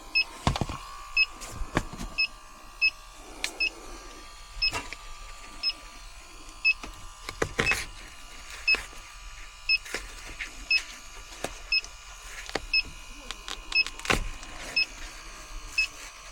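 Electronic refrigerant leak detector beeping with short, evenly spaced high beeps, among scattered sharp knocks and clicks of handling.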